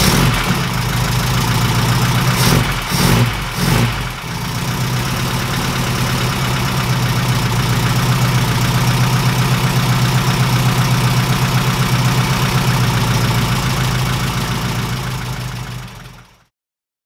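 Ford Pinto four-cylinder overhead-cam engine idling steadily with a light valvetrain rattle still there just after its valve clearances were adjusted. The note dips briefly a couple of times about three seconds in, and the sound cuts off abruptly near the end.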